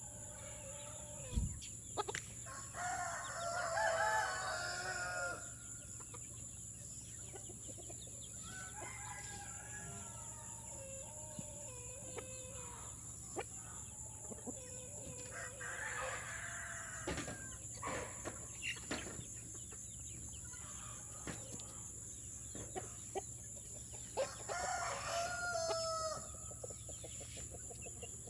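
Chickens clucking with roosters crowing several times, the loudest crows about three seconds in and near the end, among scattered small clicks.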